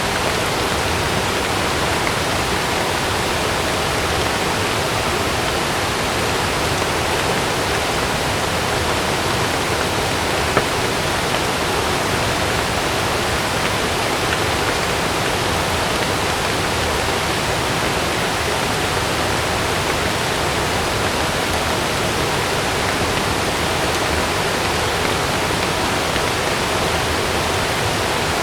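Heavy rain falling steadily, a dense, even hiss of water with no thunder in it. One brief tick stands out about ten seconds in.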